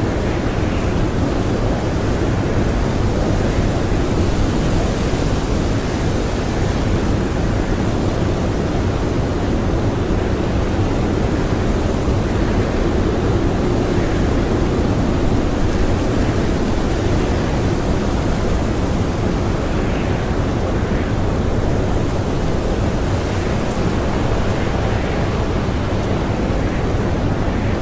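Blizzard wind howling steadily, a dense, even rush of noise that swells a little about halfway through.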